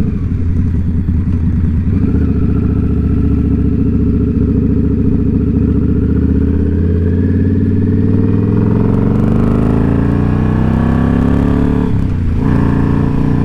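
Indian Scout Bobber's V-twin engine pulling under way, its pitch climbing steadily as the bike accelerates, then dropping at a gear change near the end before pulling again.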